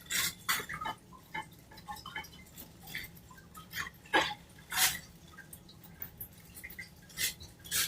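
Water dripping and splashing in short, irregular spurts, the loudest splashes about four and five seconds in. These are likely cockatiels splashing in a water bowl.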